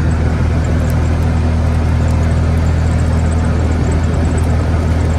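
A motor vehicle engine running at a steady speed, a low, even hum that does not change pitch.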